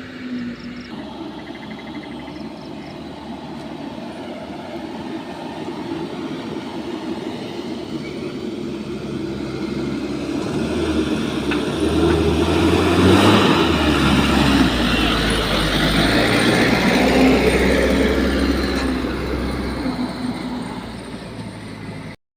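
A heavy vehicle's engine running with a steady low drone. It grows louder to a peak about halfway through, then eases off and cuts off abruptly near the end.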